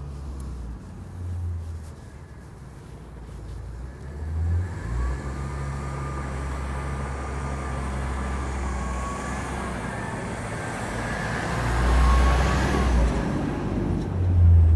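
Blue Bird Vision school bus's 6.8-litre Ford Triton V10 engine running as the bus drives, a low rumble with a thin whine that climbs in pitch about four seconds in and then holds. It gets louder twice near the end.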